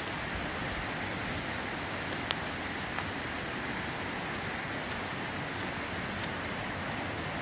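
Steady rushing of falling water, rain or a stream, with a sharp tick a little over two seconds in and a fainter one about a second later.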